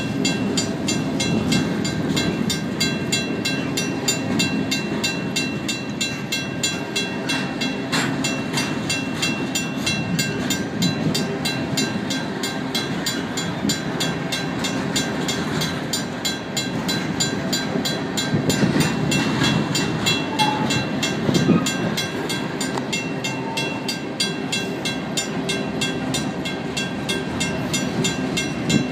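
Empty freight cars rolling past on steel wheels, a steady rumble and rattle of gondolas and hoppers. Over it, the crossing signal's WCH mechanical bell rings with rapid, even strikes.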